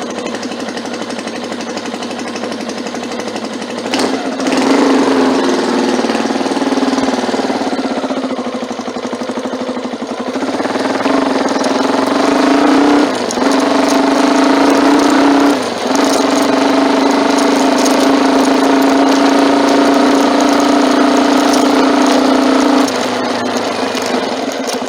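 Motorcycle engine pulling away from a low idle about four seconds in, then running under load with two brief dips in the middle like gear changes. It holds a steady pitch for a long stretch and eases off near the end.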